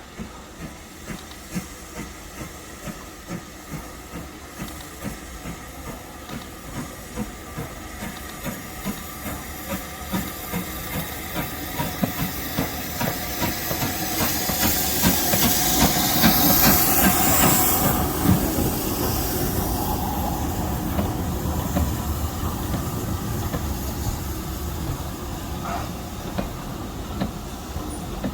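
Steam locomotive working past with a regular beat that grows louder as it approaches. A loud hiss of steam comes with the loudest moment, a little over halfway through, and the sound then slowly fades.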